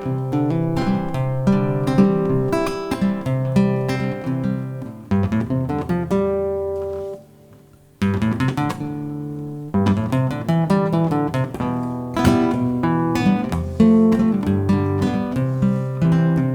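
Acoustic guitar playing the instrumental introduction to a song, picked notes over a steady bass line. A little past halfway a chord is left ringing and then stopped, and after a pause of about a second the playing picks up again.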